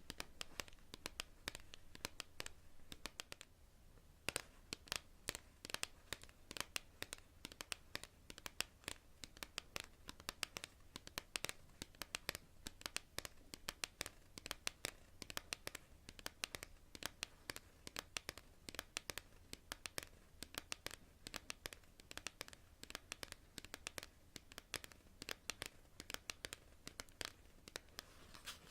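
Long natural fingernails tapping on cards: a fast, irregular stream of light sharp clicks, with a brief lull about four seconds in.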